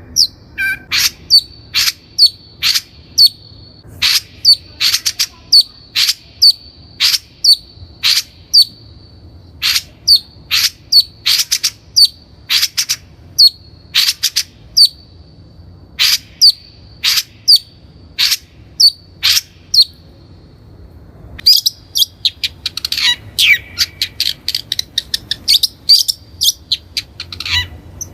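Long-tailed shrike (Lanius schach) calling, a string of short sharp notes about twice a second. It breaks off briefly about two-thirds through, then resumes in a faster, denser run.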